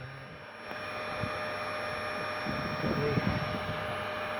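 A steady hum with a hiss, holding several fixed tones, of the kind a running motor or fan makes.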